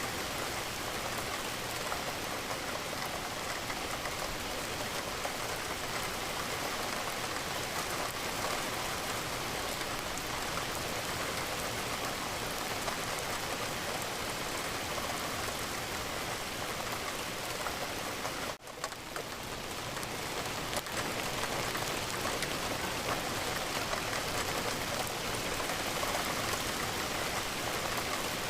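Steady rain falling, an even hiss of raindrops. About eighteen seconds in it drops out briefly and swells back within a couple of seconds.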